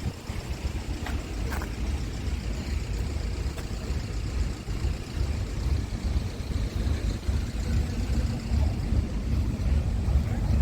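Scania P280 truck's diesel engine idling, a steady low rumble, with a couple of faint clicks early on.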